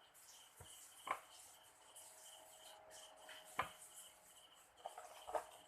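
A few faint clicks and knocks, about three over the span, over a faint, evenly pulsing high chirp.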